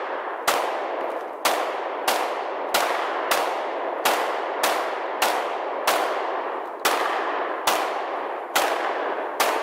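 Rapid semi-automatic gunfire: about thirteen shots in steady succession, roughly one to two a second and spacing out slightly near the end, each with a long echoing tail.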